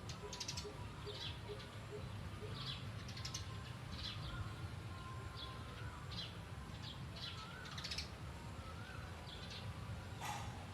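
Small birds chirping: short high chirps repeated every half second or so, over a steady low rumble, with one brief sharp sound near the end.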